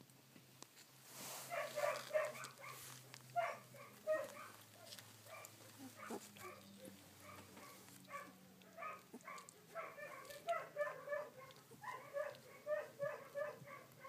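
Sixteen-day-old rough collie puppies squeaking and whimpering in short, quick runs of high calls, starting about a second and a half in.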